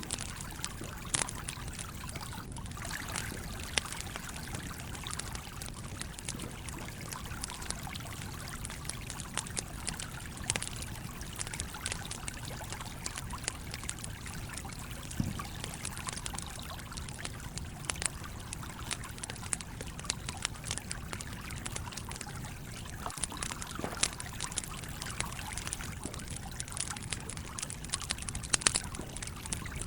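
Campfire crackling over a steadily flowing stream: a constant watery rush with frequent short pops and snaps scattered throughout, a few louder than the rest.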